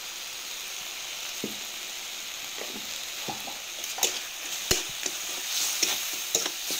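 Spice paste sizzling in hot oil in a kadai, with chilli and turmeric powder just stirred in. From about four seconds in, a metal spatula scrapes and clicks against the pan.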